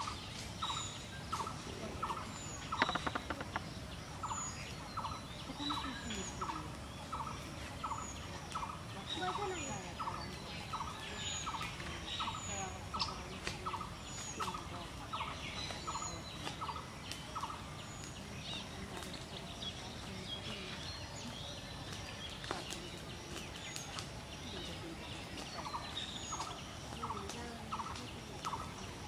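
Birds calling. One bird repeats a short note about twice a second, stops a little past the middle and starts again near the end, over scattered higher chirps from other birds.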